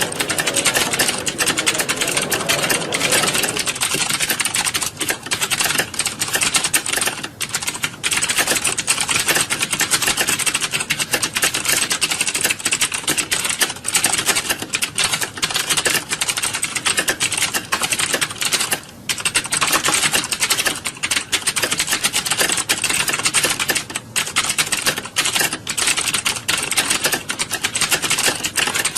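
Many computer keyboards being typed on at once, a dense continuous clatter of keystrokes with a few brief lulls, as in a typing-test exam hall.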